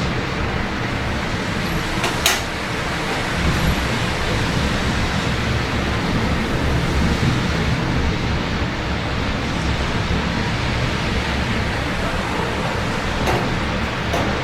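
Steady rain falling, with a low rumble of city traffic underneath. A single sharp click about two seconds in, and a fainter one near the end.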